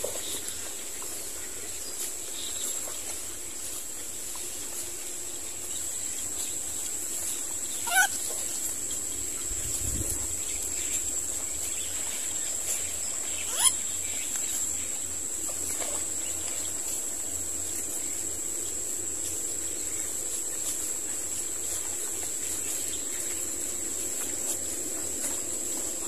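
Two short, loud bird squawks about six seconds apart, over a steady high-pitched whine in the background.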